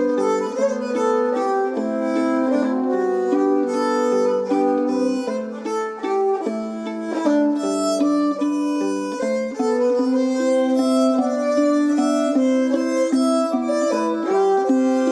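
Instrumental Irish folk music: a fiddle plays a running melody over plucked string accompaniment.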